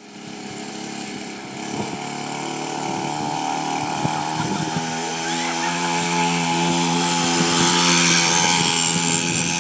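Small motorcycle engine running with a steady buzzing note, growing gradually louder.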